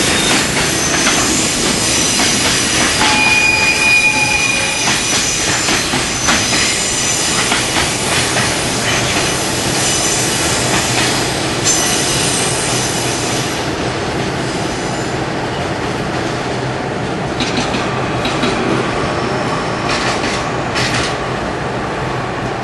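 Koki container wagons of a freight train rolling past, with high-pitched wheel squeal over a steady rolling noise and clicks over rail joints. The squeal fades out about two-thirds of the way through.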